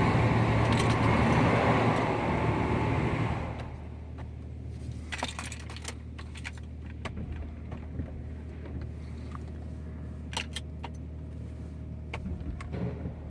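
Loud hiss of a car wash's water spray or blowers that fades out over the first few seconds. It leaves a car engine idling steadily, with scattered light clicks and ticks.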